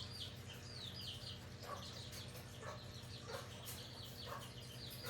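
Small birds chirping repeatedly, many quick high chirps that fall in pitch, faint, over a steady low hum.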